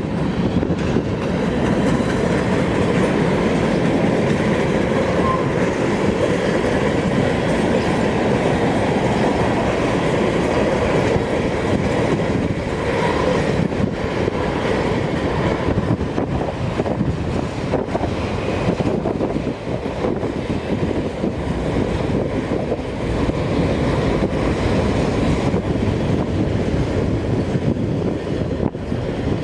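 A train's cars rolling past on the rails: a steady, loud rumble of wheels on track.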